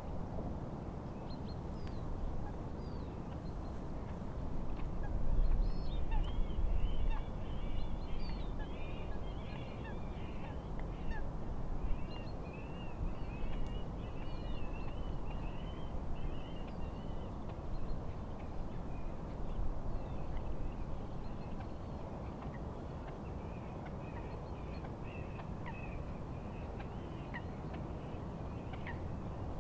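A steady low rumble of wind and lapping water, heaviest for a few seconds near the start. Over it, many birds call in short high notes, thickening into a busy chatter for about ten seconds, then thinning out and picking up again at the end.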